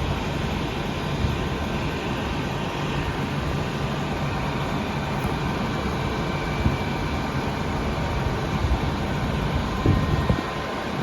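A powered-up Bombardier Innovia APM 100 people-mover car standing still, its onboard equipment running with a steady hum and rumble and a faint high whine. A brief louder knock comes about ten seconds in.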